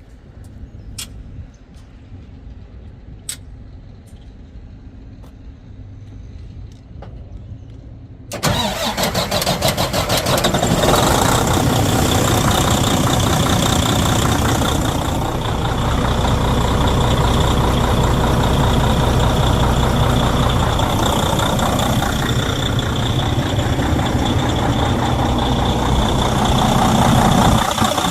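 Detroit DD15 diesel engine of a Freightliner Cascadia starting up about eight seconds in and then running steadily. The engine has a broken cylinder head that lets coolant into the exhaust and the oil. Before the start there is only a faint low hum and a few clicks.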